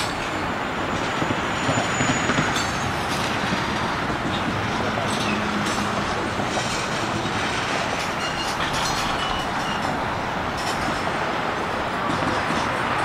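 Long Union Pacific freight train rolling slowly past, its cars' wheels and running gear making a steady rumble and rattle on the track. A few faint high squeals sound in the middle.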